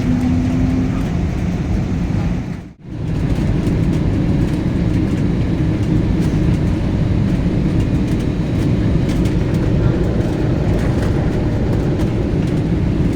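Airliner cabin noise: a steady low rumble of the aircraft rolling and running. It drops out abruptly for a moment about three seconds in, then resumes.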